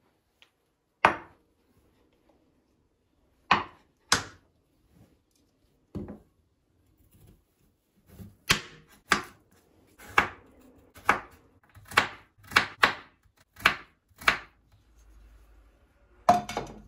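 Kitchen knife chopping on a cutting board: about fourteen separate sharp knocks, spaced out at first and coming faster from about eight seconds in.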